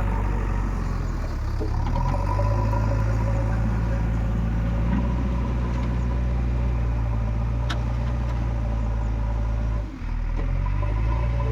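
Heavy diesel engine running steadily at an even pitch, with a brief dip in level about ten seconds in.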